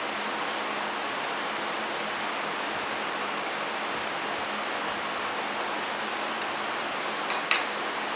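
Steady, even hiss with two quick clicks close together near the end.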